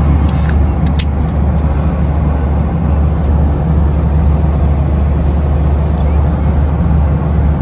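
Steady low drone of a Boeing 737-800's cabin in flight: its CFM56 engines and the airflow over the fuselage. A couple of short clicks come about a second in.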